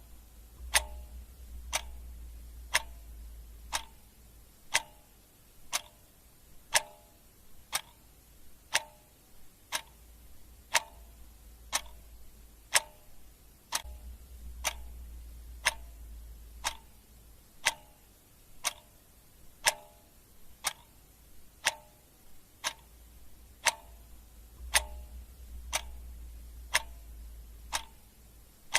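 Clock ticking steadily, one sharp tick each second. A faint low rumble comes and goes underneath.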